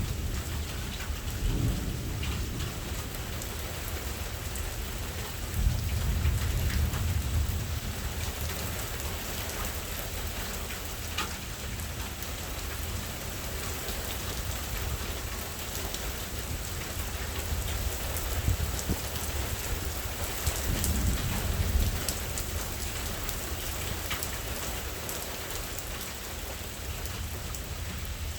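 Steady rain falling, with scattered drops ticking on a surface, and low rolls of thunder swelling a few seconds in and again about two-thirds of the way through.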